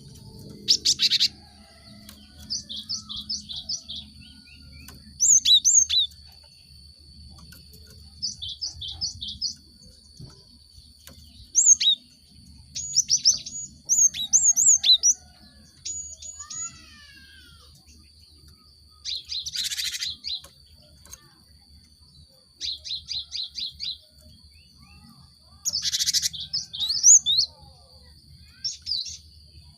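Cinereous tit (gelatik batu) calling: short bursts of quickly repeated high chipping notes every few seconds, with a few harsh chattering bursts. A faint steady high tone runs underneath.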